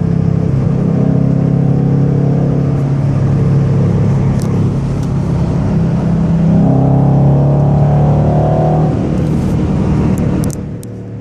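2014 Ford Mustang GT's 5.0 V8 running through a Roush aftermarket exhaust with a deep note, steady while cruising, then pulling harder and rising in pitch about six and a half seconds in before easing off again.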